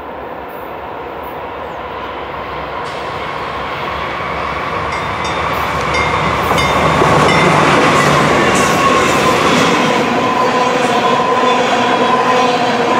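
Freight train led by two GE Dash-8 diesel locomotives, growing louder as the locomotives approach and pass about seven seconds in. Then the loaded tank cars roll by, wheels clicking over the rail and squealing in several steady tones.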